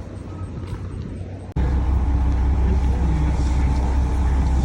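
Low background noise, then an abrupt cut about a second and a half in to a loud, steady low engine rumble from a Maine Narrow Gauge Railroad train.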